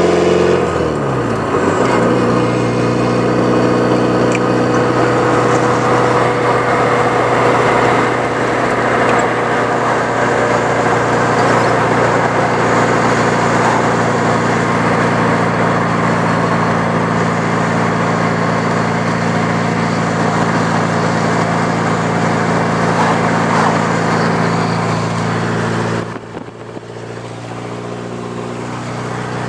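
Straight-piped exhaust of a 1983 Porsche 944's 2.5-litre four-cylinder engine, with no catalytic converter or muffler. The revs fall just after the start, then it runs steadily for most of the time. Near the end the sound drops suddenly, then climbs again.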